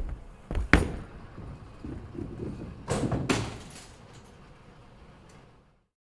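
A few knocks and thuds over a low rumble. The loudest is just under a second in, and two more strong ones come around three seconds in.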